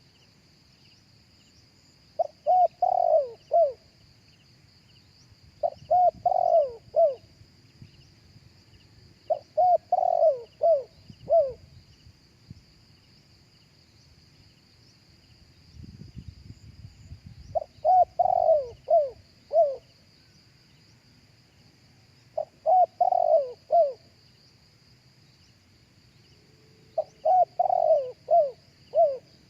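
A spotted dove cooing: about six phrases of several quick, hoarse notes each, one every few seconds, with a longer pause in the middle.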